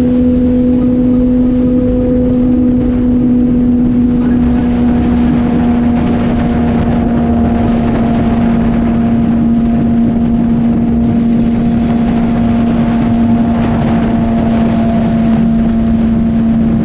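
Suzuki GSX-R sport motorcycle running at a steady cruising speed: an even, unchanging engine note over low wind rumble on the microphone.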